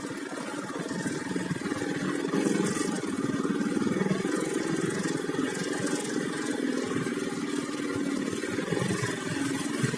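Floodwater splashing and churning steadily, a continuous rushing wash of water.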